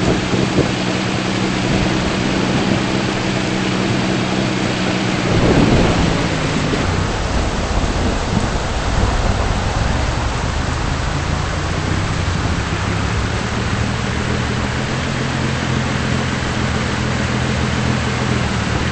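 Heavy rain falling steadily, with a rumble of thunder about five to six seconds in, over a steady low hum.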